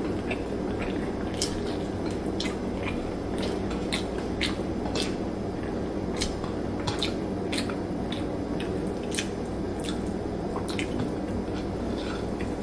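Someone eating with the hands: wet chewing and mouth clicks, a few sharp smacks a second at irregular intervals, over a steady low room hum.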